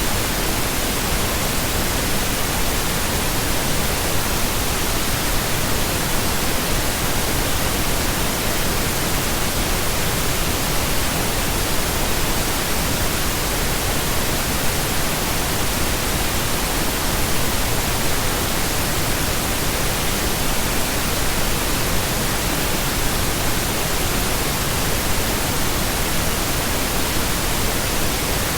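Steady pink noise: a continuous, even hiss with no changes, voices or music.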